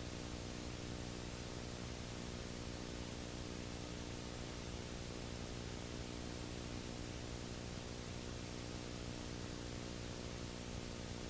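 Steady electrical hum with many overtones under a constant hiss, unchanging throughout, with no other sound standing out.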